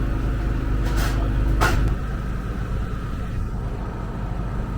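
A steady low engine hum, with two short sharp clicks about one and one-and-a-half seconds in. The hum eases off about two seconds in.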